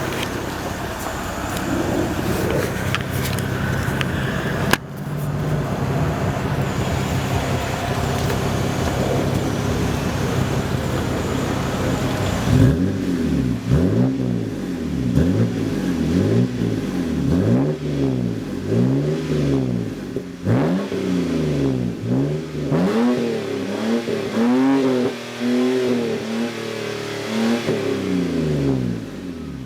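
Exhaust of a BMW E90 328i straight-six, fitted with a Detail Addict mid-pipe and an Eisenmann race muffler. It drones steadily for about twelve seconds, with a single click near five seconds. Then it is revved up and down over and over, a rise and fall in pitch about every second and a half.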